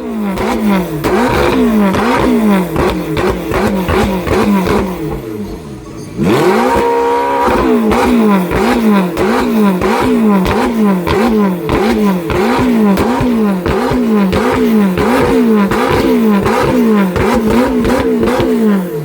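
A supercar engine revved in quick repeated throttle blips, each one falling away in pitch, with sharp crackling pops from the exhaust. About six seconds in it is held in one longer rev that climbs and holds before the blipping resumes.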